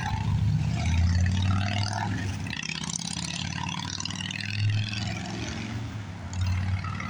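Motor vehicle engines running with road noise: a low rumble that swells about a second in and again around five seconds, over a steady hiss of traffic.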